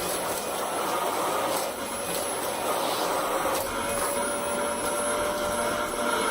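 Vacuum cleaner running steadily, a constant motor whine over airflow noise, the tone of the suction shifting a couple of times as it is worked over the floor.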